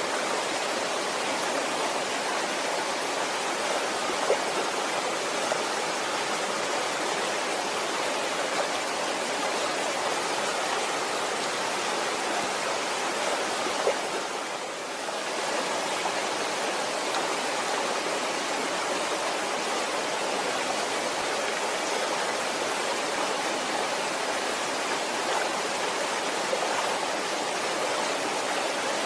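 Waterfall: a steady, even rush of falling water, dipping briefly in level about halfway through.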